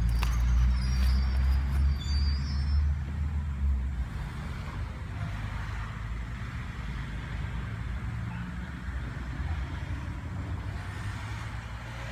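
Nagano Electric Railway train running at a level crossing: a heavy low rumble that dies down about four seconds in, leaving a steadier low hum.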